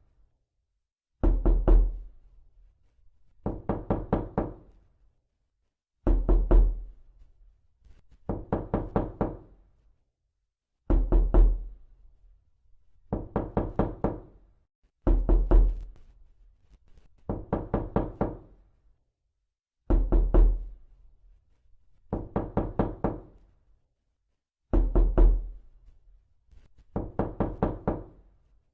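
Repeated knocking in quick groups of about four to five knocks, one group every two seconds or so. A heavier, deeper group alternates with a lighter one.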